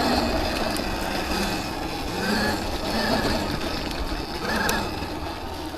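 Electric dirt bike being ridden: a faint wavering motor whine over a steady rush of wind and ground noise.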